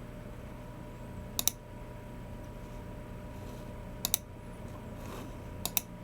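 Sharp mouse-button clicks of a Logicool G304 wireless mouse: three quick double clicks, each pair of clicks a split second apart, spaced a couple of seconds from one another over a faint steady hum.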